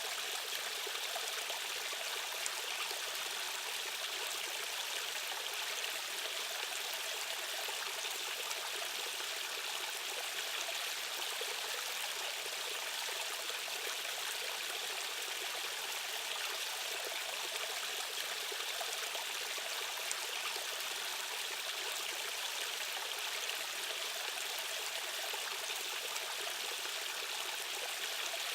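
Steady flowing water of a stream's current, an even, unbroken wash of running water that is light in the bass.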